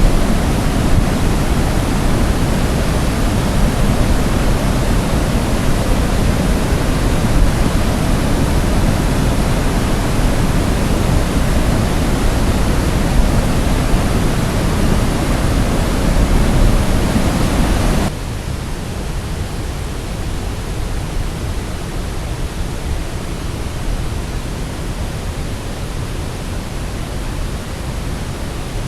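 Steady rushing of cascading water from a waterfall. About two-thirds of the way through it drops suddenly to a quieter, thinner rush.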